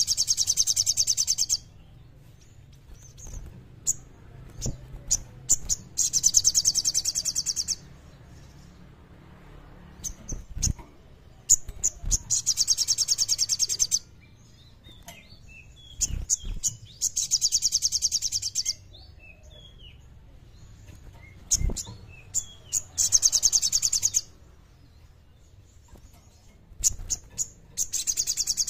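A sogon songbird singing vigorously: a loud, very fast high trill lasting about a second and a half, repeated roughly every five to six seconds, with shorter chirps and notes between the trills.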